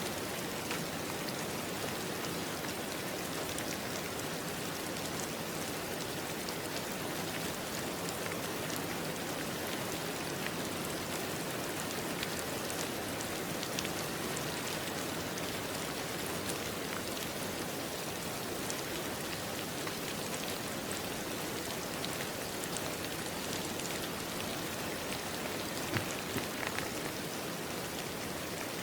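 Steady rain falling on a surface, an even hiss with scattered individual drop taps and a few louder drops near the end.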